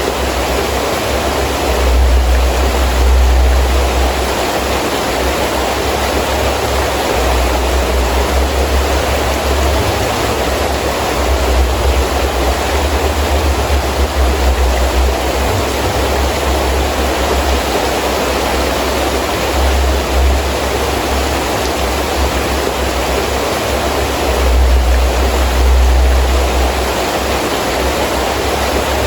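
Heavy rain falling steadily with wind, a dense even hiss. Low rumbling swells rise and fall twice, about two seconds in and again near the end.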